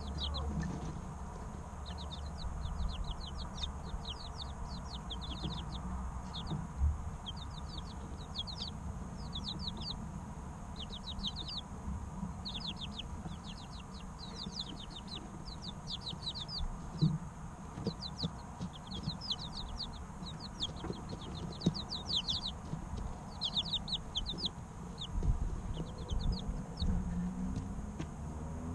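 Three-week-old chicks peeping: quick runs of short, high, downward-sliding chirps, over and over. A low rumble and a few light knocks sit underneath.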